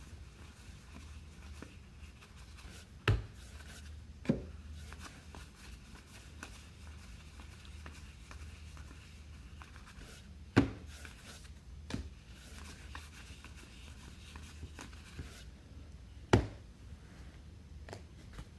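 Trading cards being handled and flipped through by hand, soft rubbing and sliding between a few sharp taps as cards or a pack are set down on the table.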